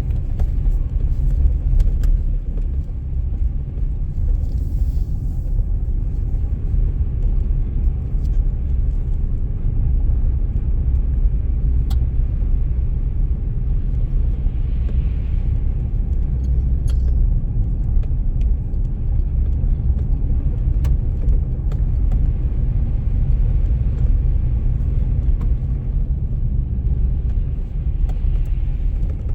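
Steady low rumble of a car driving through snow, engine and tyre noise heard from inside the vehicle, with a few faint clicks.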